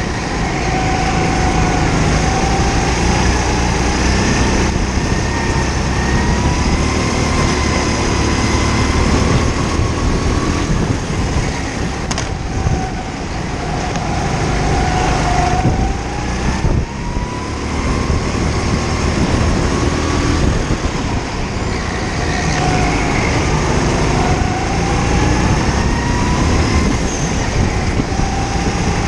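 Kart engine at racing speed, its pitch climbing slowly for several seconds as it accelerates and then dropping back as it slows for a corner, over and over.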